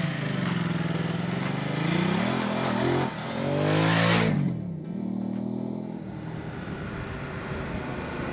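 Ducati Multistrada 950's L-twin engine pulling away and accelerating, its pitch rising, dropping at a gear change about three seconds in and climbing again. It eases off at about four and a half seconds and runs quieter and steadier from about six seconds.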